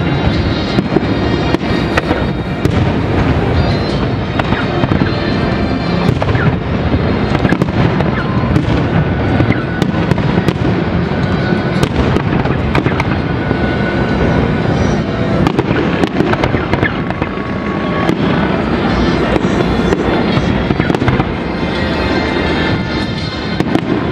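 Aerial firework shells bursting one after another, a dense run of bangs close together over a constant din.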